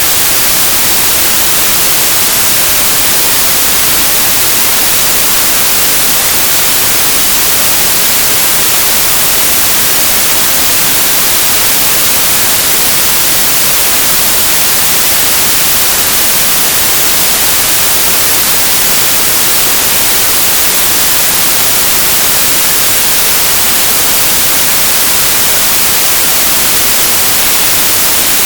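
Synthesized white noise: a steady, even hiss, bright and strong in the treble, with no change, tones or events.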